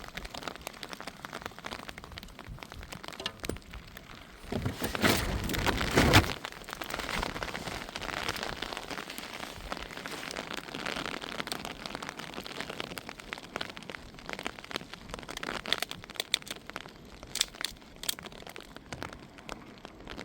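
Rain falling steadily, with scattered crackles and clicks. About four and a half seconds in, a louder rushing noise swells for under two seconds and then cuts off sharply.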